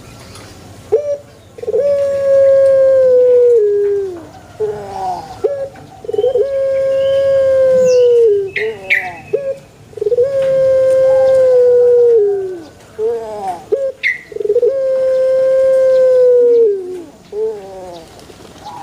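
A puter pelung, a Barbary dove (Streptopelia risoria), singing its long coo: four long drawn-out notes, each held steady for about two seconds and then dropping in pitch, with short broken notes between them.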